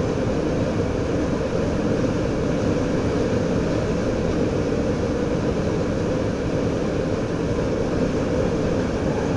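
Steady running noise of a DM'90 diesel multiple unit heard from inside its driver's cab at speed: an even, low drone of the diesel drive and wheels on the rails.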